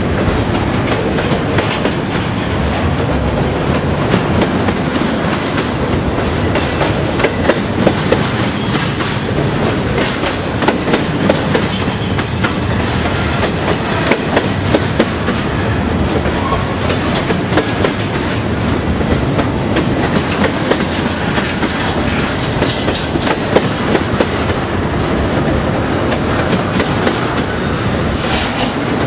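Double-stack intermodal freight train passing close by: loud, steady noise of the well cars rolling, with the steel wheels clicking irregularly over the rail joints.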